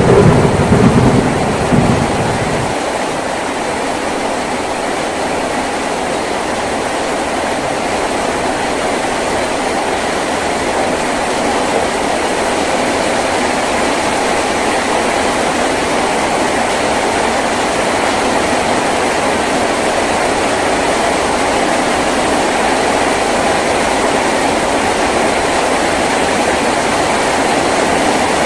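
Heavy rain falling steadily on a tin roof. A low rumble of thunder dies away about two and a half seconds in.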